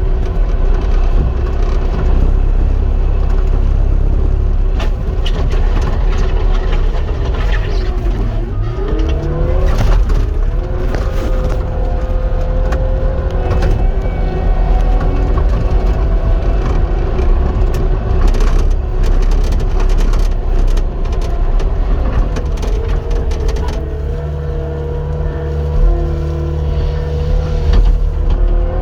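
Cat 259 skid steer's diesel engine running steadily under load, with scattered clattering knocks and a whine that rises about nine seconds in and holds steady.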